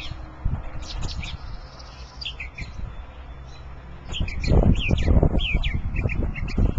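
Small songbird chirping: a run of quick, short down-slurred notes, sparse at first and coming thick and fast over the second half. Under it a low rumble of wind on the microphone comes up a little past halfway and is the loudest sound.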